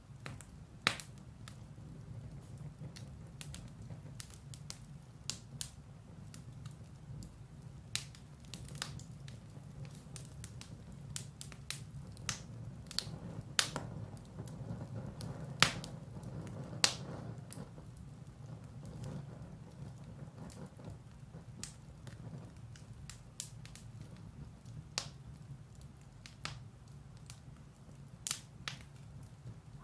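Firewood burning in a fireplace: irregular sharp crackles and pops over a steady low rumble of the fire.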